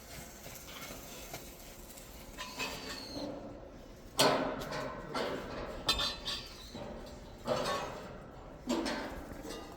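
A series of about five separate clanks and knocks with a short ringing tail, like metal parts striking each other; the loudest comes about four seconds in.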